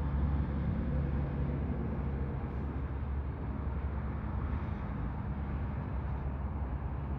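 Kenworth T280's Paccar PX-7 diesel engine idling, a steady low rumble.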